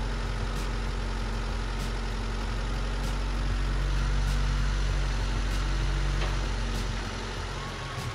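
Car engine idling with no oil and sugar syrup being poured into its crankcase, running poorly and 'not liking the sugar syrup'. A faint tick repeats about every second and a quarter. The sound swells a little about halfway through and drops back near the end.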